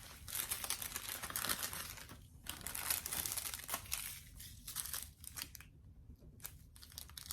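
Small plastic bags of diamond-painting drills crinkling as they are handled and sorted. The rustling comes in bursts, busiest in the first half and patchier and quieter near the end.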